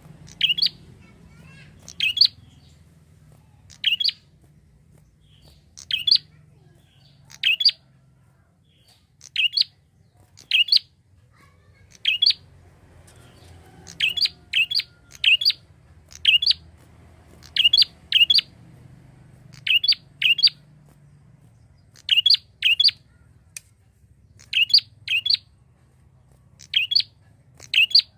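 Prinia (prenjak) calling: short, sharp, high-pitched notes, given singly or in quick pairs, repeated every second or two. A faint low hum lies underneath.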